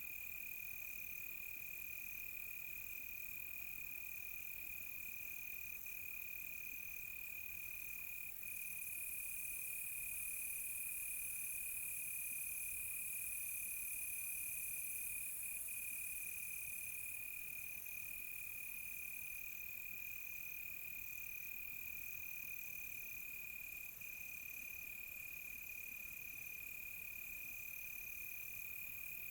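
Crickets trilling in one steady, unbroken high tone, with a second, higher insect call pulsing in short repeated chirps over it. A very high hiss swells louder from about 8 seconds in and fades back at about 17 seconds.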